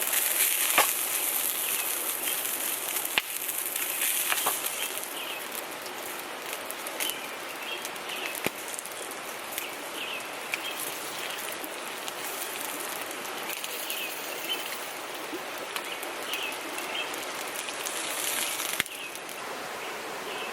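River water rushing steadily, with a small bird chirping again and again over it and a few sharp clicks. The level drops suddenly near the end.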